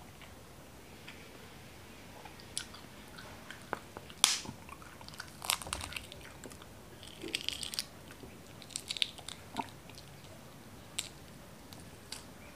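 Shell of a boiled balut duck egg being cracked and picked off by fingers: scattered small crackles and clicks, the sharpest about four seconds in.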